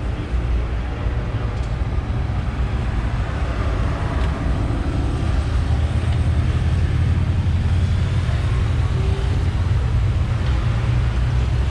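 Open-air tram car moving along: a steady low rumble of its engine and wheels with a noisy rush of wind and road noise, unchanging throughout.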